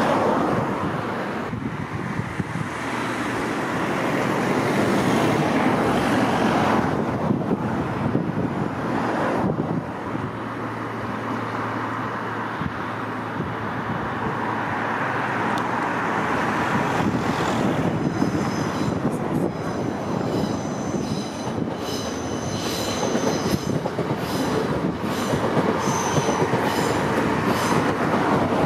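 Hitachi Azuma express train running past close by over the pointwork, with continuous wheel-and-rail rumble and clatter. In the second half come repeated high-pitched squeals from the wheels on the curved track.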